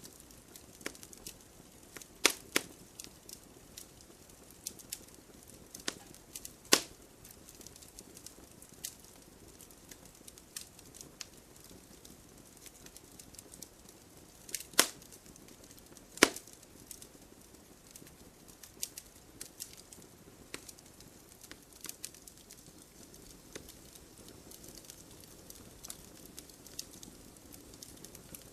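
Wood fire crackling: scattered small crackles with a few sharp, loud pops, the loudest about two, seven, fifteen and sixteen seconds in, over a faint steady hiss.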